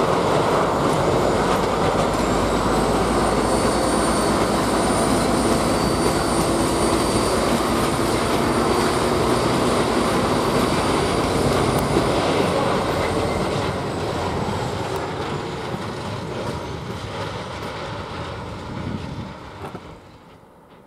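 Diesel locomotive hauling a freight train past, its engine running under power as the wagons roll over the rails, with a thin high squeal over the noise for much of the time. The sound fades as the train moves off.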